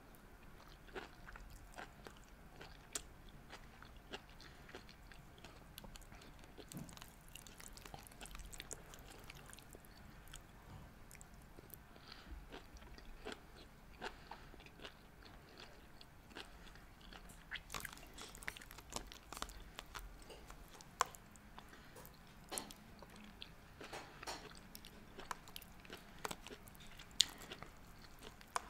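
Faint close-up chewing and biting of seaweed salad, with many small, scattered clicks.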